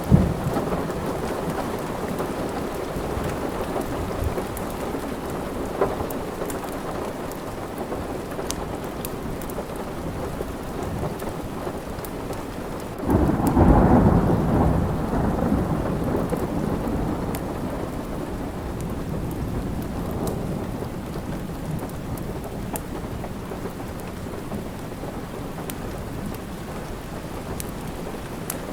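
Steady rain with a roll of thunder about halfway through that swells suddenly and fades away over several seconds, and a sharp crack of thunder right at the start. Sparse faint crackles from a fireplace sound over the rain.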